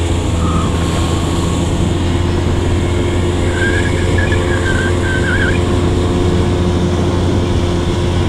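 40 hp outboard motor running steadily as the boat cruises, a constant engine hum with water and wind noise. A brief wavering high-pitched sound rises over it about halfway through.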